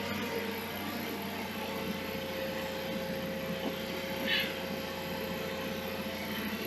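A steady machine-like whir with a faint steady tone through most of it, and a brief high squeak about four seconds in.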